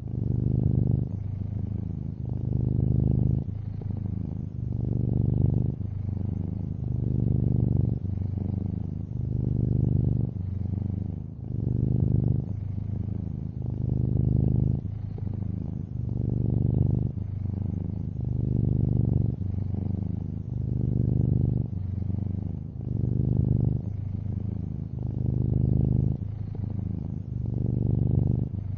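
Domestic cat, a long-haired orange tabby, purring steadily and close up. The low rumble swells and eases with each breath, about every two seconds.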